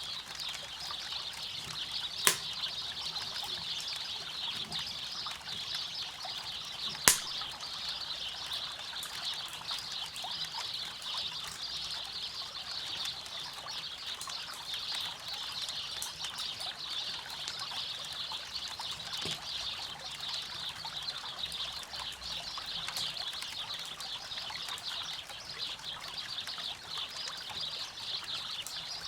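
River water flowing in a steady rushing hiss, with a campfire popping sharply twice, about two and seven seconds in.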